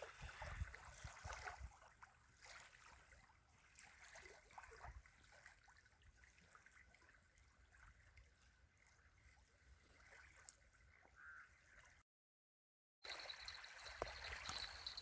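Faint lapping and trickling of lake water stirred by small waves, with scattered small ticks. About twelve seconds in the sound drops out completely for a second, then returns a little louder with a thin steady high whine.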